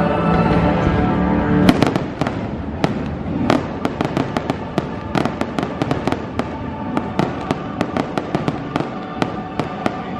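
Fireworks going off in rapid succession, many sharp bangs and crackles. They begin about a second and a half in over orchestral show music, which carries on more faintly beneath them.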